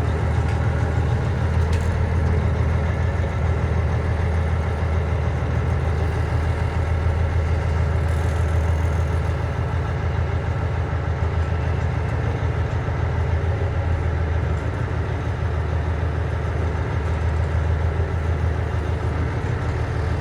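Cummins ISM inline-six diesel of a 1999 International 9100i tractor, running steadily with an even low rumble.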